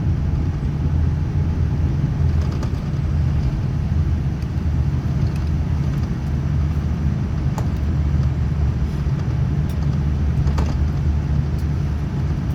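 Steady low rumble inside the passenger cabin of a Boeing 787-9 Dreamliner with Rolls-Royce Trent 1000 engines, rolling on the ground after landing. A few faint rattles or clicks sound over it.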